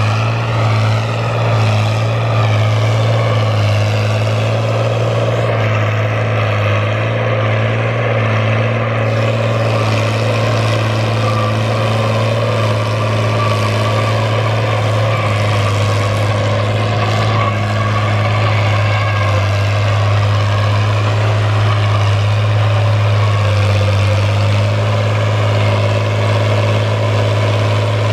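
Fiat 1000 DT Super tractor's diesel engine running steadily under load with a constant deep hum, as it pulls a plough through a field.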